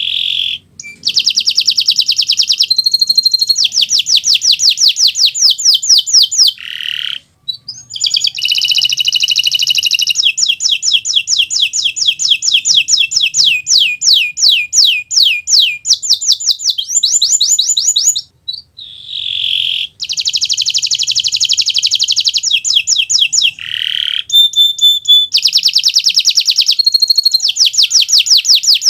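Kenari Nusantara canary singing a long, loud song of fast trills and rapidly repeated sweeping notes, broken by a few short pauses.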